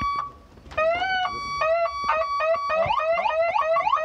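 Police car's electronic siren being switched between tones: short chirping sweeps, a steady tone, then quick repeated rising sweeps several times a second.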